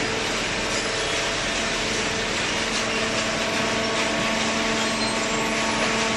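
Hydraulic cardboard baler's electric motor and pump running steadily, a constant hum over a hiss of machine noise.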